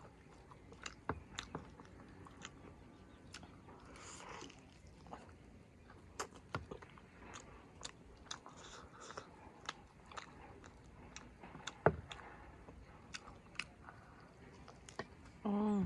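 Close-miked chewing and biting on a meal of chicken curry and rice, with sharp wet mouth clicks and crunches scattered throughout, the sharpest about twelve seconds in. A brief hum near the end.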